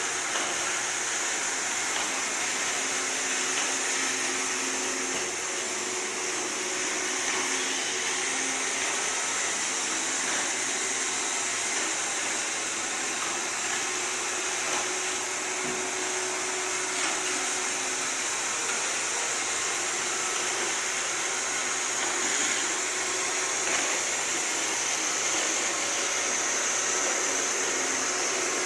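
Roomba robot vacuum running steadily: an even, high-pitched rushing hiss from its motor and brushes.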